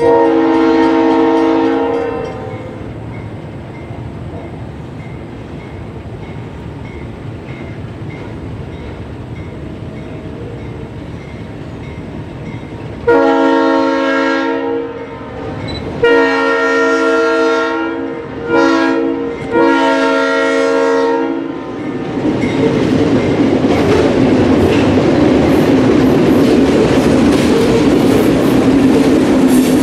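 Freight train diesel locomotive's air horn: one blast at the start, then the grade-crossing signal of two long blasts, a short one and a long one as the train nears the crossing. The train then passes close, its freight cars' wheels rolling on the rails in a loud, steady rumble.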